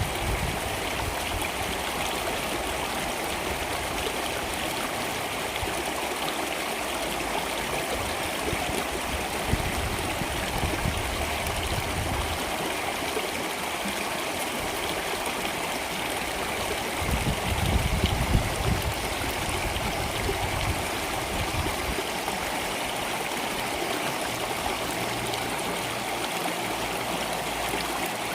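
Water flowing steadily in a stream, an even rushing and trickling. A low rumble swells briefly about two-thirds of the way in.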